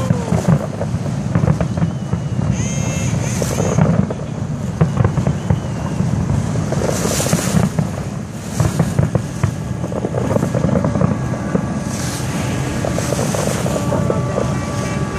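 Wind buffeting the microphone over the steady low rumble of a boat's engine, with a few hissing gusts.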